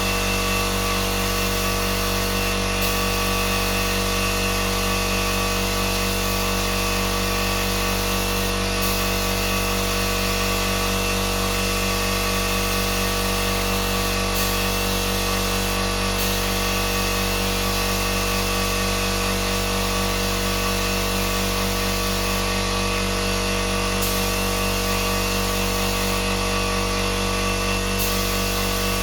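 Electric power tool running steadily, its motor giving an even hum with a fixed whine.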